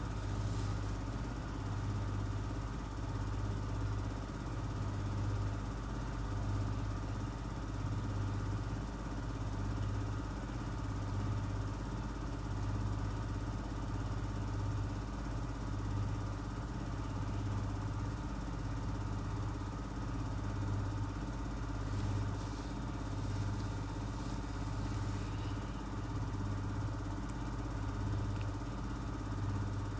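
Miele W1 W360 front-loading washing machine spinning at speed with an evenly distributed load: a steady hum that throbs regularly about every second and a half.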